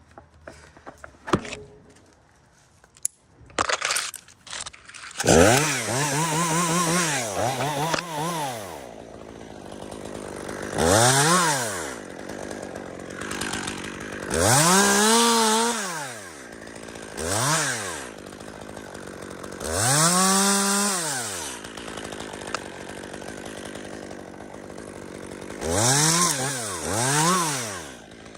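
Small two-stroke chainsaw revved up and down in about eight short bursts, idling between, while cutting dead spruce. The first few seconds are quieter, with only a few knocks before the saw comes up to speed.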